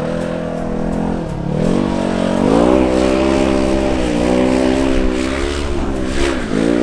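Engine of a 1,000 cc off-road vehicle revving hard as it churns through mud. The pitch climbs, drops briefly about a second in and again near the end, and climbs back each time.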